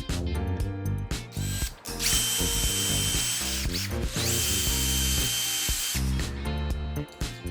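An electric power tool running in two runs of just under two seconds each, with a steady high whine over a hiss, over background music with a steady beat.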